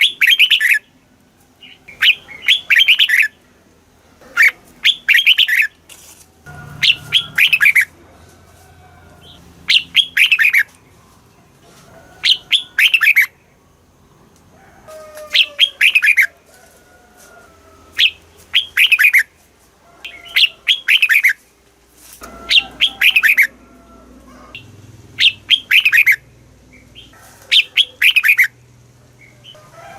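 Red-whiskered bulbul singing, repeating a short, loud phrase of warbled notes every two to three seconds.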